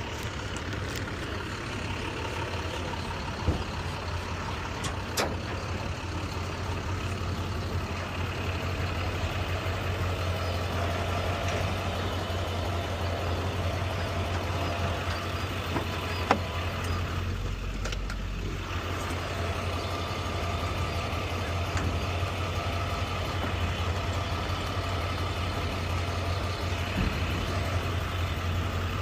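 Truck engine running steadily, with a few brief sharp knocks.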